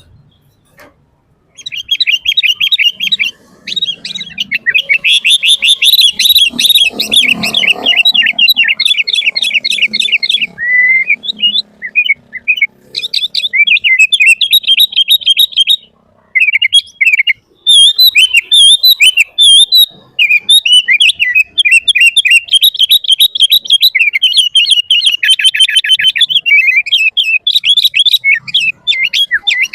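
Sooty-headed bulbul (kutilang) singing busily. The song comes in long runs of rapid, chattering repeated notes that start about two seconds in, with a couple of short pauses.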